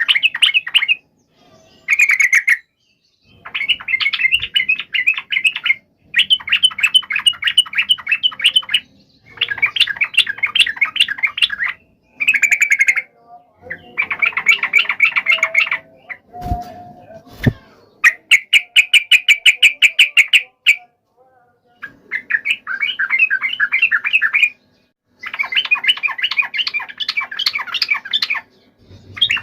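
Yellow-vented bulbuls (trucukan) giving a fast chattering call of rapidly repeated notes, the agitated fighting call, in bursts of two to three seconds with short gaps between. A couple of low knocks sound near the middle.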